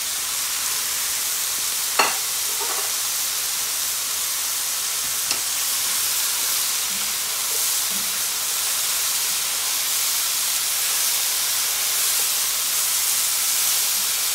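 Chicken, mushrooms and red pepper sizzling in a hot skillet as they are stirred with a spatula: a steady, really loud frying hiss. There is a sharp clack about two seconds in and a lighter one a few seconds later.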